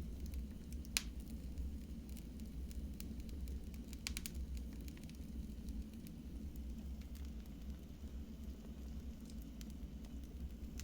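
Wood fire burning in a fireplace: a steady low rumble with scattered crackles. There is a sharp pop about a second in and a quick cluster of pops about four seconds in.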